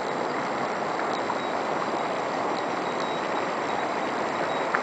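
Mountain stream running: a steady rush of flowing water, with a small click near the end.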